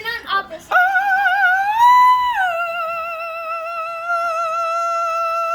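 A person's voice singing a long, high operatic-style note with a wobbling vibrato, starting just under a second in, sliding up briefly about two seconds in, then dropping back and holding steady.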